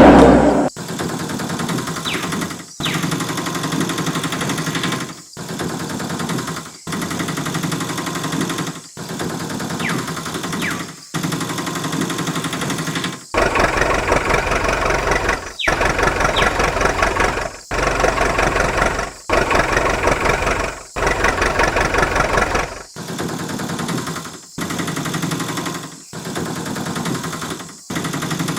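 A motor running steadily, heard in a string of short cut clips a second or two long, louder for a while in the middle.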